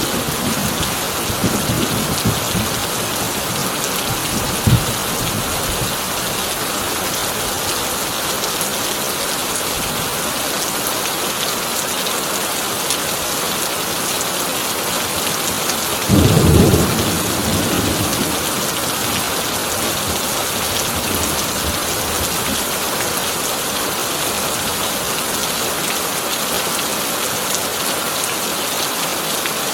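Heavy rain falling on a tin roof as a steady hiss, with thunder: a low rumble dying away at the start, a short crack about five seconds in, and a louder thunderclap about sixteen seconds in that rumbles off over about two seconds.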